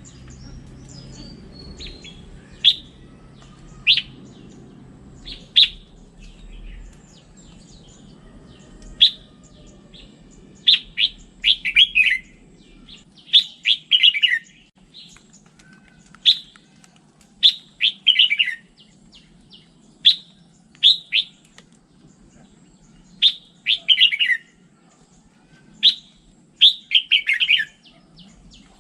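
Red-whiskered bulbul singing: short, clear phrases repeated every second or two, several of them quick runs of notes sliding downward in pitch.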